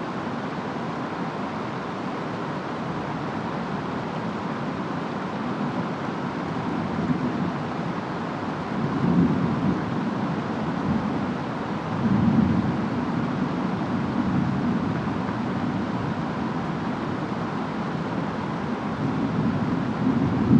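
Steady rain with low rumbles of distant thunder, swelling about nine and twelve seconds in and again near the end.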